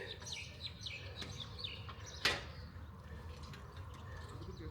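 Wild birds chirping: a quick run of short, high chirps in the first two seconds. A little over two seconds in comes a single sharp knock, the loudest sound.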